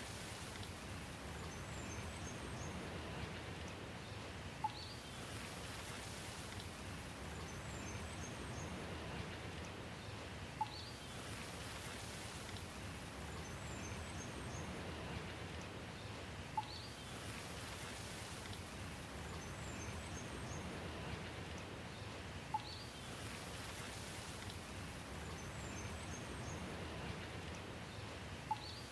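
Steady rain falling. Five times, about every six seconds, comes a short sharp tick, and faint high chirps sound between them, the same pattern repeating as in a looped recording.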